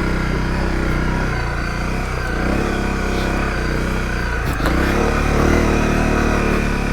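Honda CRF250L's single-cylinder four-stroke engine running steadily while the bike is ridden, with a short knock about four and a half seconds in and a little more throttle just after.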